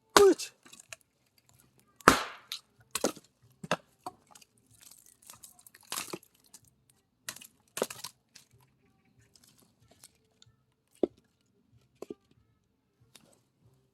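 Firewood being split with an axe: a series of sharp cracks and knocks at uneven intervals. The loudest comes about two seconds in, with a splintering tear.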